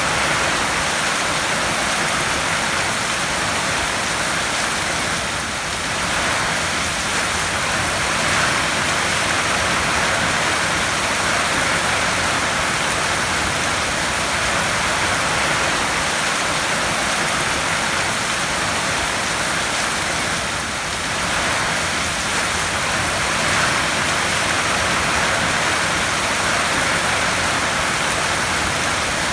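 Heavy rain falling steadily on a tin roof, a dense, even hiss that eases slightly for a moment twice.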